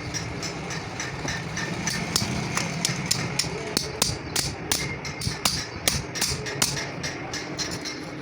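Repeated hammer blows on metal, irregular at about two to three a second and getting louder about two seconds in, over a steady low background hum.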